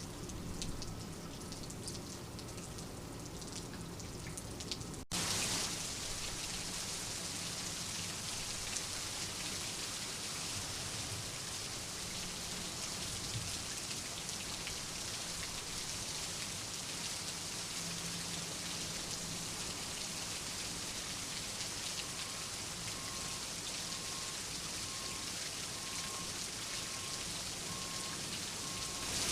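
Steady rain falling, with separate drops audible for the first few seconds. About five seconds in, the sound cuts abruptly to a denser, even rain hiss that holds steady.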